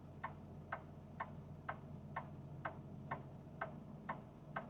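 A truck's indicator flasher clicking in the cab at about two ticks a second, over the steady low hum of the idling diesel engine.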